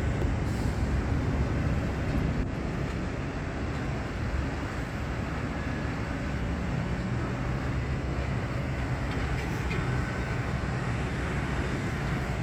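Steady low mechanical rumble of heavy machinery running at a sugarcane mill.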